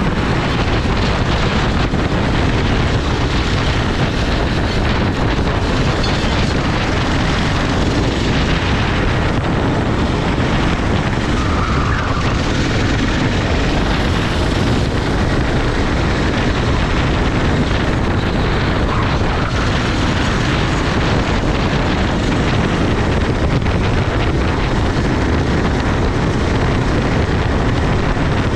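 Onboard sound of a racing kart at speed: wind buffeting the microphone in a steady, loud rush.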